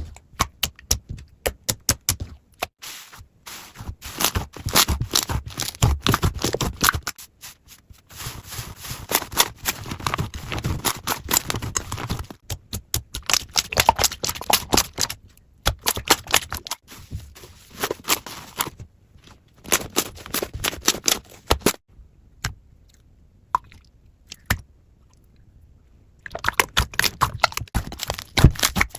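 Slime being squeezed and poked by hand, giving dense runs of sticky clicks and pops. These come in bursts of a few seconds, with short pauses and a longer quieter stretch about three quarters of the way through.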